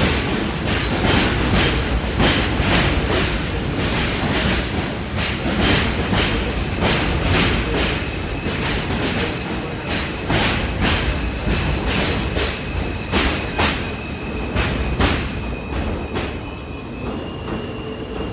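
New York City Subway J train running on track, its wheels clicking over rail joints about twice a second over a steady rumble. A thin, high wheel squeal comes in during the last few seconds.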